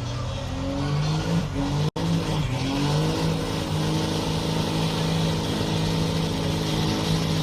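24-valve Cummins diesel pickup engine in a truck pull, revving up and then held steady at high rpm under the load of the pulling sled. The sound cuts out completely for an instant just before two seconds in.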